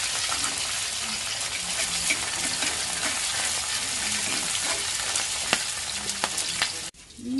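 Whole shell-on prawns deep-frying in a small pan of hot oil: a steady, dense sizzle and crackle with a few sharper clicks. The sizzle cuts off suddenly near the end.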